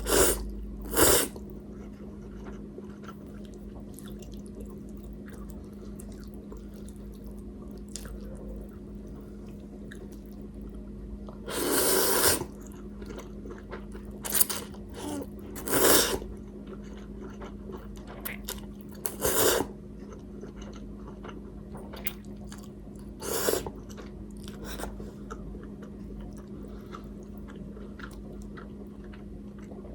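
Close-miked eating of spicy instant ramen noodles: steady quiet chewing with small wet clicks, broken by a few louder noisy bursts of about a second each, the longest about twelve seconds in, typical of noodles being slurped.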